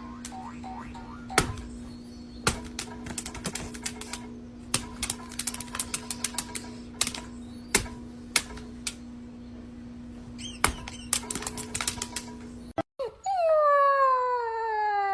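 Many sharp, irregular clicks and taps over a steady hum. Then, after a cut, a dog howls in one long call that dips and rises in pitch.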